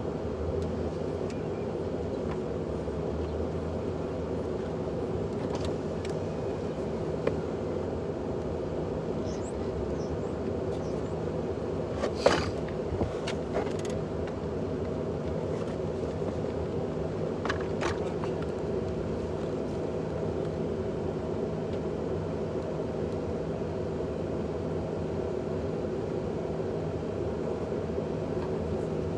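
A steady mechanical hum, with a few sharp clicks and knocks between about twelve and eighteen seconds in, the loudest about twelve seconds in.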